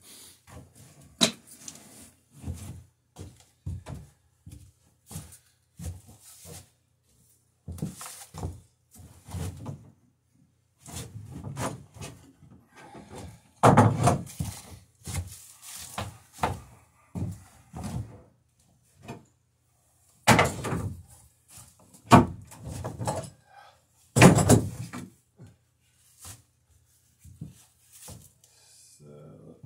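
Hand plane taking saw marks off the underside of a wooden boat rail: a run of separate strokes and knocks of uneven length. The longest and loudest strokes come about halfway through and again near the end.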